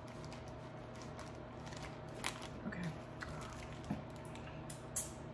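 A person chewing and biting food close to the microphone, with a few short crunchy clicks over a steady faint hum.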